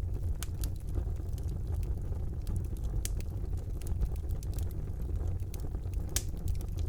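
Wood fire burning in a fireplace: a steady low rumble of the flames with irregular sharp crackles and pops, one louder pop a little after six seconds in.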